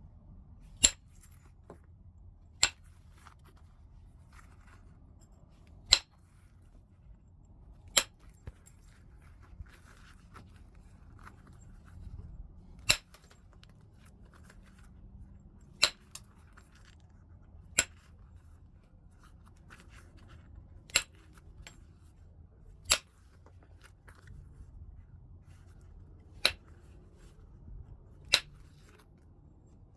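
Heat-treated Burlington chert being knapped: about a dozen sharp clicks as flakes are struck off, roughly one every two seconds, with faint rubbing and handling between strikes.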